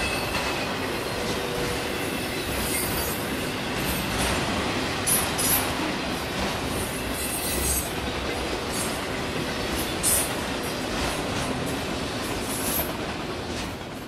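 Freight train of autorack cars rolling past close by, a steady rumble of wheels on rail with short high squeals from the wheels several times.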